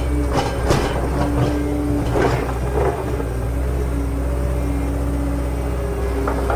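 Steady low vehicle rumble, with a few short sharp clicks and some held tones over it.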